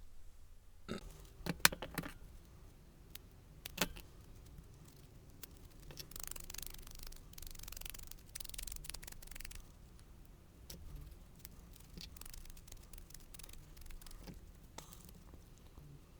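Craft supplies handled on a work table: a few sharp clicks and taps from tools being picked up and set down, then paper rustling for several seconds, with scattered small ticks.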